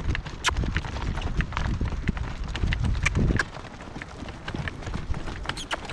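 A horse walking in harness, its hoofbeats clip-clopping unevenly on soft pasture ground, with sharp clicks and rattles from the vehicle it pulls.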